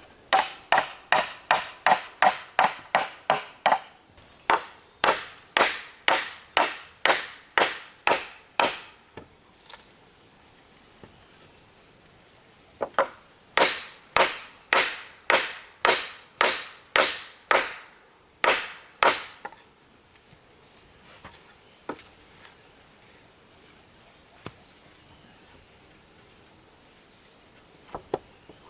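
A hammer striking wood in runs of blows: quick at first, about three a second, then slowing to about two a second. There is a pause of a few seconds, then another run, and the blows stop about two-thirds of the way through. A steady, high insect chorus runs underneath.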